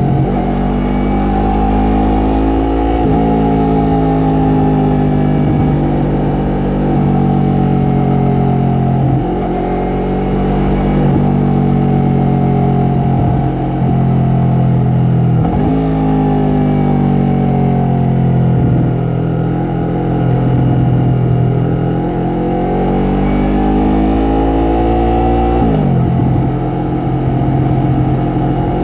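Yamaha MT-03's parallel-twin engine and exhaust under way, the revs climbing and then dropping sharply every few seconds as the rider works the throttle and gears.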